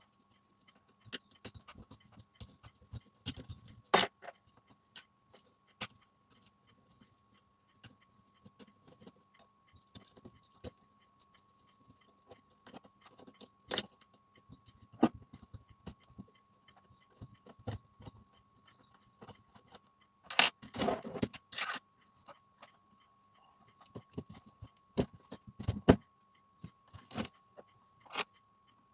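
Irregular clicks, clinks and knocks of small metal parts and tools being handled while working on a nitro RC car during an engine swap, with a cluster of louder knocks about two-thirds of the way through.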